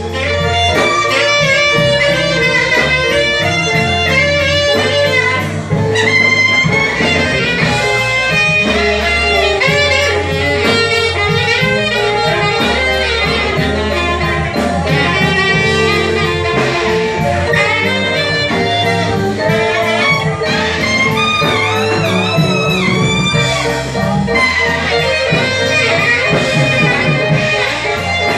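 Live band playing a continuous jazz-blues number over a steady bass line.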